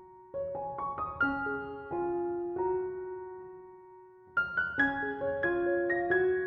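Background piano music: short runs of notes that stop on a held note fading out, with a new run starting just past the middle.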